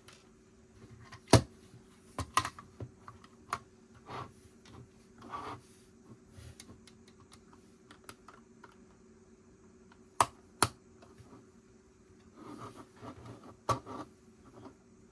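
Lego bricks being handled and pressed together: sharp plastic clicks, loudest about a second and a half in and twice around ten seconds, with softer rattling and shuffling of pieces in between.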